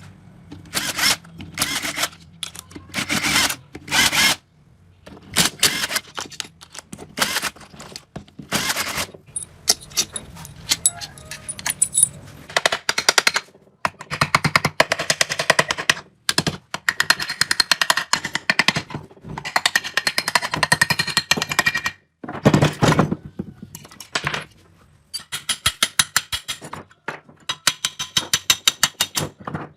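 Tool work on a motorcycle: runs of sharp knocks, some single and some in fast rattling trains of about ten a second, broken by short pauses.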